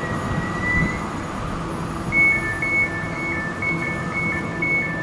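Elizabeth Line Class 345 electric train running slowly into the platform. About two seconds in, a high two-note tone starts, switching back and forth steadily between the notes.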